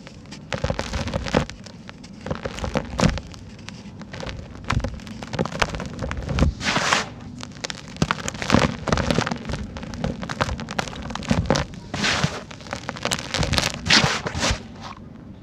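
Dry, dusty sand-cement chunks crumbling and crunching, in repeated bursts of crackling and gritty patter about a second or two apart.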